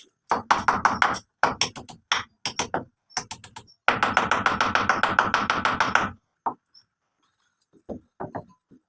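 Repeated sharp blows, like hammering: a run of separate strikes, then a faster, almost continuous run of strikes for about two seconds, then a few scattered knocks near the end.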